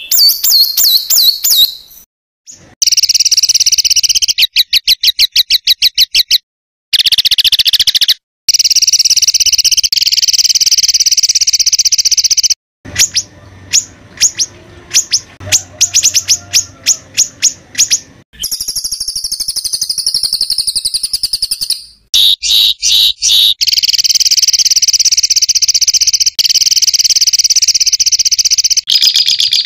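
A songbird singing harsh, rapid-fire phrases of the kind bird keepers call 'tembakan kasar': long, fast, high-pitched trills alternating with runs of sharp repeated notes, plus a buzzy falling phrase near the middle. The song breaks off abruptly several times.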